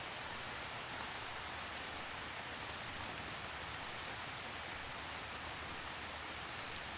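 Steady gentle rain falling, an even patter with no change in strength.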